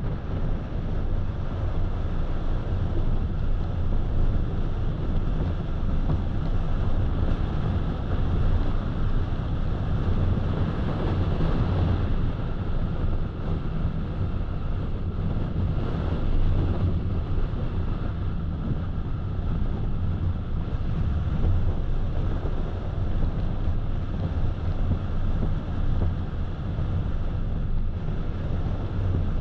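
Steady road noise of a car driving, tyres on the road and wind rushing past, as picked up by a dashcam.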